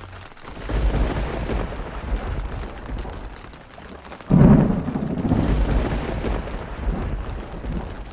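Thunder rolling over steady rain: a deep rumble builds about a second in, then a sharper, louder clap about halfway through rumbles on for a few seconds and slowly fades.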